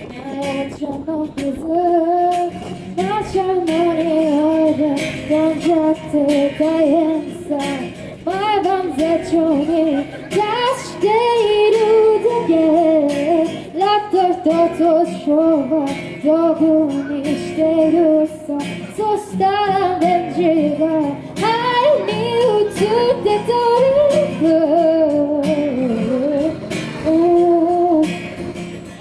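A woman singing a song with musical accompaniment.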